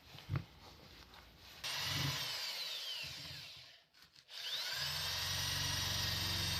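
Electric power tool motor switched on and run, spinning down to a stop about halfway through, then started again with a rising whine that settles into a steady run.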